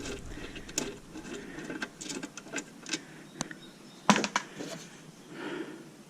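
Scattered light clicks and knocks of hand tools and metal parts being handled while a power supply is dismantled, the loudest a double knock about four seconds in.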